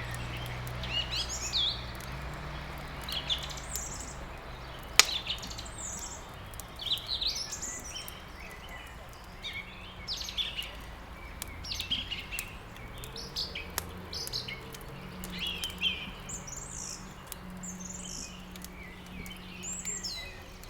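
Songbirds chirping and twittering in short repeated phrases, over the crackle of burning wood in a fireplace, with one sharp crack about five seconds in.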